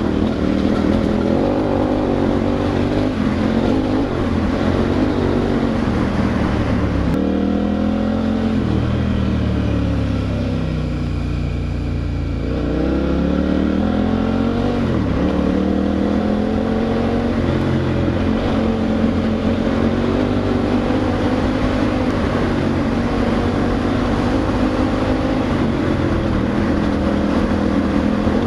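KTM adventure motorcycle's twin-cylinder engine running under way. Its pitch falls from about a quarter of the way in as the bike rolls off, then climbs again a few seconds later as it accelerates.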